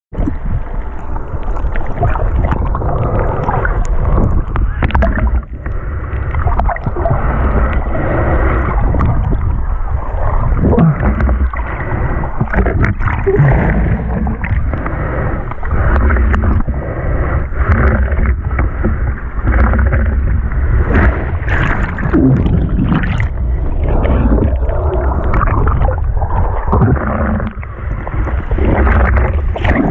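Sea water churning and splashing against the microphone, muffled, over a heavy low rumble of surf and wind, with irregular sloshes throughout.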